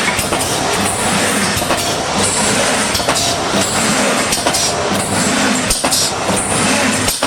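Automatic column mesh welding machine running: continuous loud mechanical clatter and noise, with a few short clicks.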